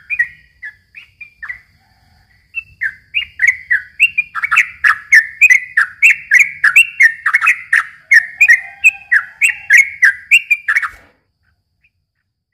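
Yellow-vented bulbul (trucukan) singing a long rapid run of short, clear chirping notes, several a second. There is a brief pause about two seconds in, then the song stops suddenly near the end.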